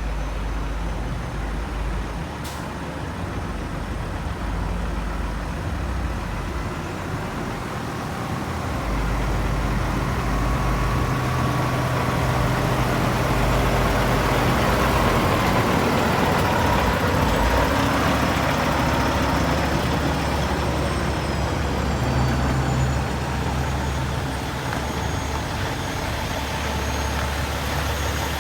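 Heavy trucks moving off in convoy: a steady engine and road rumble that grows louder about nine seconds in and eases again later.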